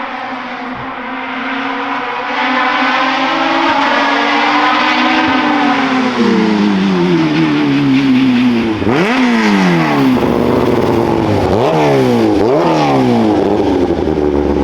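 Hill-climb race car engine. Its pitch falls as it slows, then it gives three or four quick revs, each a sharp dip and rise in pitch, before settling into a steady lower note near the end.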